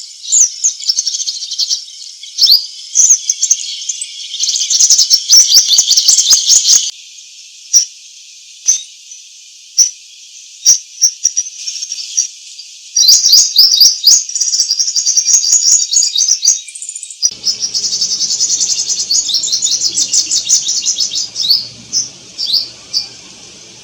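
Small birds chirping and twittering in dense runs of quick, high calls, coming in spells with short lulls between.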